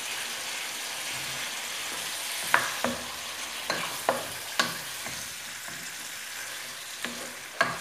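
Veal, diced onion and tomato paste sizzling in a pot as they are sautéed and stirred with a wooden spoon. From about two and a half seconds in, the spoon knocks and scrapes sharply against the pot every half second or so.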